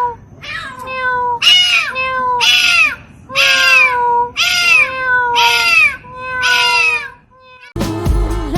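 A cat meowing over and over, about once a second, each meow rising and then falling in pitch. Near the end, music with a beat and singing comes in.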